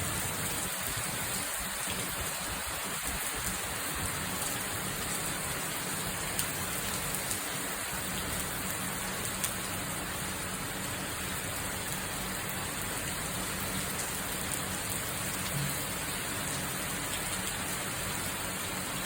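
Steady rain falling, with a few sharper drops ticking now and then.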